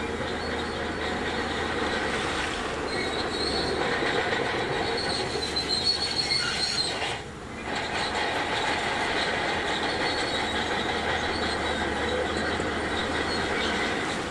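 Crawler bulldozer running under load, its steel tracks squealing and clattering over the engine; the noise dips briefly about seven seconds in.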